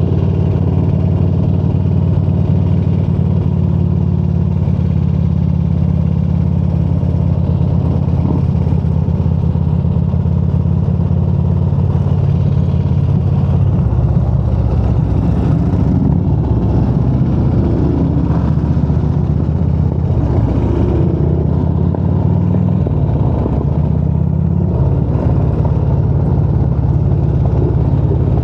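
Motorcycle engine running steadily while riding. The note turns rougher and less even about halfway through, then settles back to a steady drone.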